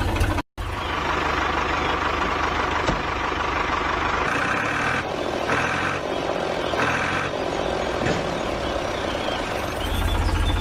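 Tractor engine running steadily, with a short break just after the start. Three short higher-pitched blasts sound in the middle, and the engine's low rumble grows heavier near the end.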